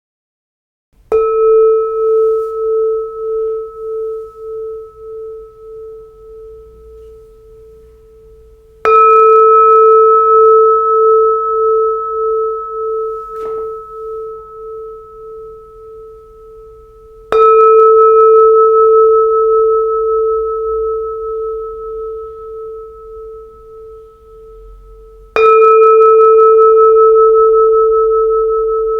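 A 20 cm Huế-style Buddhist bowl bell of red copper and tin, struck four times about eight seconds apart. Each strike rings on in a long, slowly fading tone that wavers in a steady pulse.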